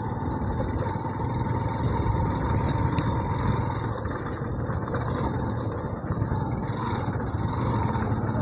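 Motorcycle engine running steadily while being ridden, with no change in pace.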